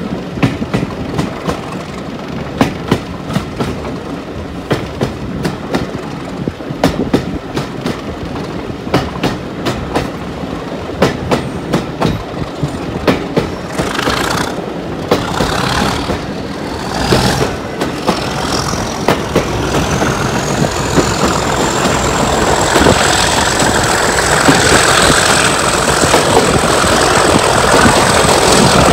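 Train wheels clickety-clacking over rail joints, heard from a coach window. About two-thirds of the way through, the Class 37 diesel locomotive at the head of the train opens up: its engine grows louder and a turbocharger whistle rises in pitch, then holds steady.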